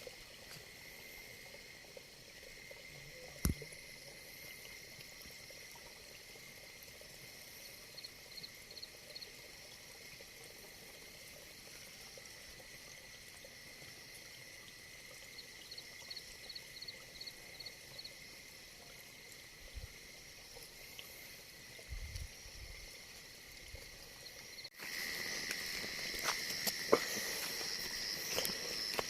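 Faint night chorus of insects chirring steadily, with short runs of rapid high chirps. A single sharp click comes a few seconds in, and the chorus becomes louder near the end.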